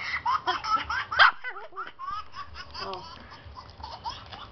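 Baby-laughing ringtone playing from a cellphone on repeat: quick strings of baby giggles, loudest in the first second and a half, then a brief break and fainter laughing.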